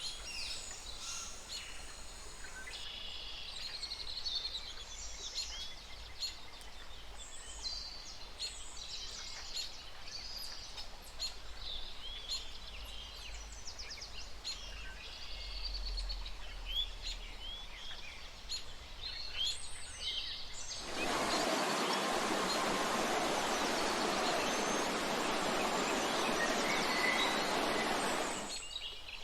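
Many small birds chirping and calling, with overlapping short high chirps and trills. About 21 seconds in, a loud, steady rushing hiss cuts in, covers the birds for about seven seconds, then stops abruptly.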